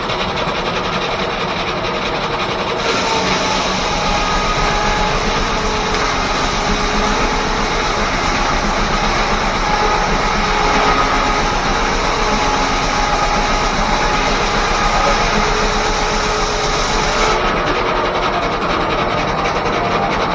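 1880s R.R. Howell left-hand sawmill driven by a steam engine, running steadily. About three seconds in, a harsher, brighter whine sets in and lasts about fifteen seconds before dropping back near the end, fitting the saw cutting through a log.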